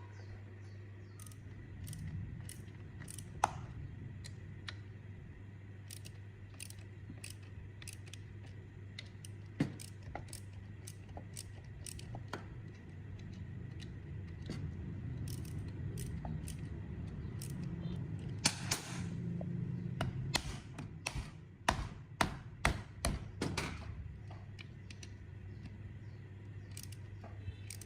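Metal parts and hand tools being handled during pump restoration work: scattered sharp clicks and taps, coming thick and fast about two-thirds of the way through, over a steady low hum.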